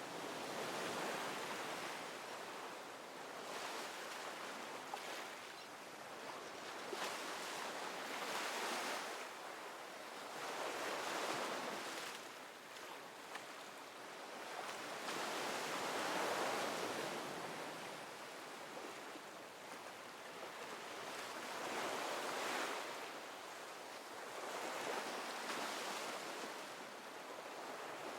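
Ocean waves breaking and washing on a shore, a steady rush that swells and eases every few seconds.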